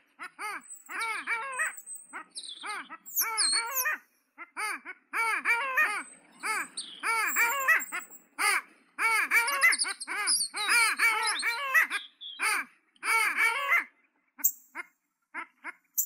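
Birds calling: bursts of rapid, repeated arched call notes, each burst under a second with short gaps between them. Thin, high chirps and trills of small birds sound above.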